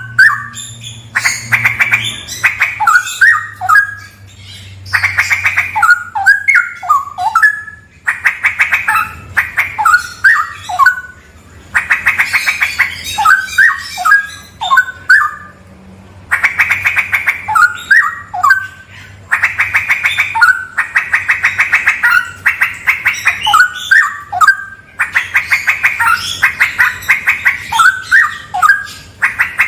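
Straw-headed bulbul (cucak rawa) singing loudly in repeated phrases about every four seconds. Each phrase opens with a fast trill and ends in a few rich, gliding whistled notes.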